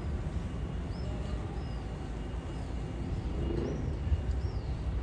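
Outdoor ambience: a bird gives short chirps, rising then falling, about once a second, over a steady low background rumble.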